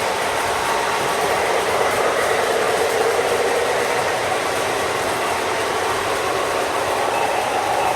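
A train running by, giving a steady, even rush of wheels on rail with no breaks.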